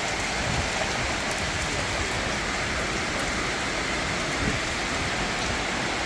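Heavy tropical rain pouring down as a thunderstorm arrives, a steady, even hiss of rain hitting surfaces.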